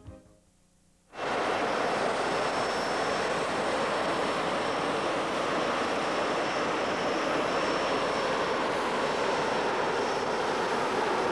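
Jet-engine wind machine running steadily: a loud, even rush of air with a thin high whine over it, cutting in abruptly about a second in.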